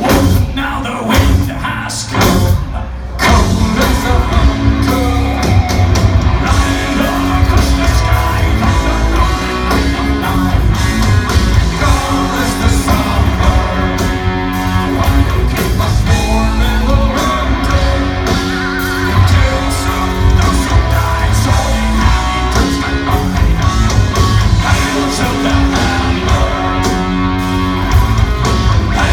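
Viking metal band playing live and loud: distorted electric guitars, bass and drums, with singing.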